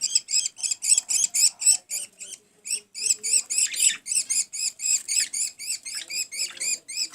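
Budgerigar chicks begging: fast, rhythmic high-pitched chirps, about five or six a second, with a short pause about two and a half seconds in. This is the food-begging call of chicks being fed.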